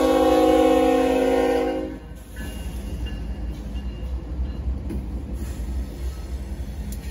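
Freight train horn sounding a loud, steady chord that cuts off about two seconds in. It is followed by the low rumble of the passing diesel locomotives and hopper cars.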